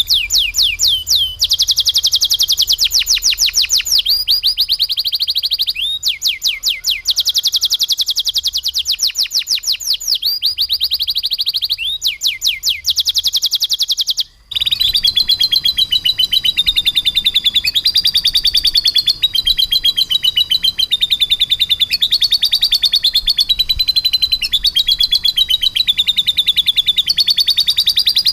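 Domestic canary singing a continuous rolling song of very rapid trills, each phrase a long run of fast repeated notes, taking in lovebird-style phrases. The song cuts off for a moment about halfway, then resumes with a different, lower trill.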